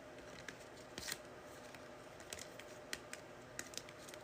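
Faint, scattered light clicks and taps, a few sharp ticks spread irregularly over low room tone.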